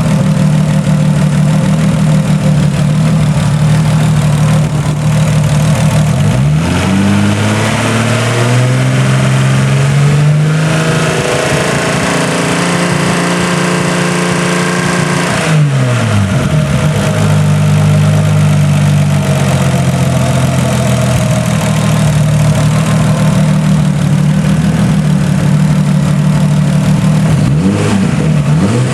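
Freshly rebuilt Nissan RB25DET turbocharged 2.5-litre straight-six running at idle, revved up about six seconds in and held there for several seconds before dropping back to idle, with a quick blip near the end. The rebuilt engine is being run to show a ticking noise that has appeared since the rebuild.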